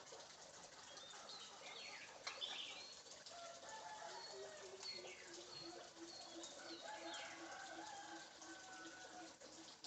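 Faint chirps and short whistles of birds, with a rapid, evenly pulsed low note starting about four seconds in.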